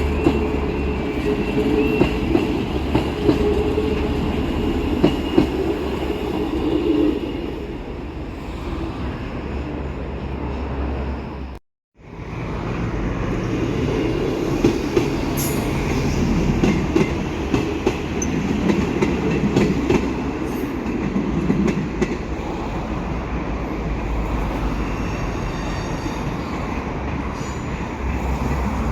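Train running past on the rails: a steady rumble with scattered wheel clicks and a faint wheel squeal near the start. It cuts off abruptly about twelve seconds in, and another stretch of passing-train rumble and clicks follows.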